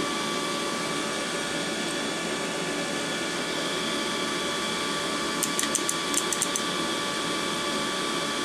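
Steady whirring hum of a small electric motor or fan with a thin, high whine over it. A quick run of about eight light clicks comes a little past the middle.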